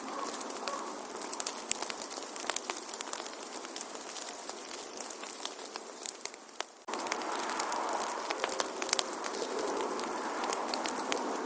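Wood fire crackling in a fireplace, with frequent sharp pops over a steady hiss. The sound fades briefly and comes back abruptly about seven seconds in.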